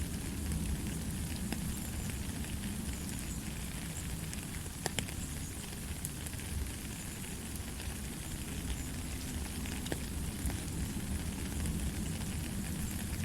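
Steady rain falling, an even hiss with scattered sharper drop impacts, one of them clearer about five seconds in.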